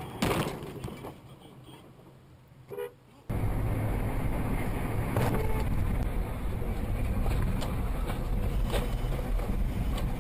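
Dashcam recording of car driving noise: a quieter stretch with a short car horn toot, then from about three seconds in a sudden jump to a steady, louder low rumble of engine and road noise heard from inside the car.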